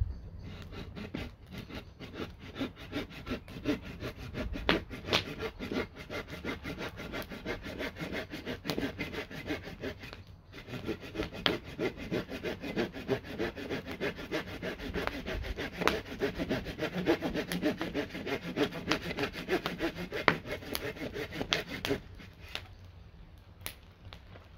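Folding hand saw cutting through firewood in rapid back-and-forth strokes, with a short pause about ten seconds in. The sawing stops shortly before the end.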